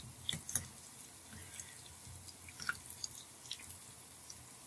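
Hot oil sizzling faintly and steadily as small qatayef fry, with scattered little pops and crackles.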